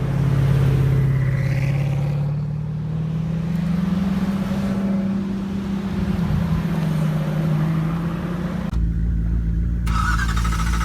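A car engine running at high revs with a strong, steady note that climbs slightly in the first few seconds. Near the end it switches abruptly to a deeper engine rumble.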